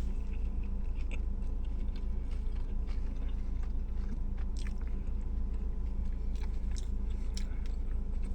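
A person chewing a mouthful of steak sub sandwich, with small soft clicks scattered throughout, over a steady low hum.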